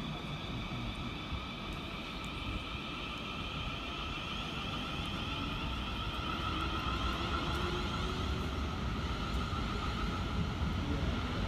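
Class 450 Siemens Desiro electric multiple unit pulling away, its traction motors giving a whine that slowly rises in pitch and grows louder over a low rumble.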